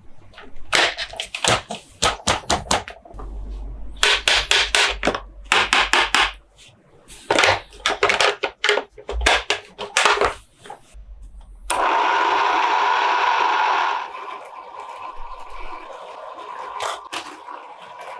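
Close-up hand sounds on plastic toy trucks and packaging: clusters of quick taps and clicks. About twelve seconds in, a steady hiss runs for about two seconds, followed by quieter handling noise and a few more clicks.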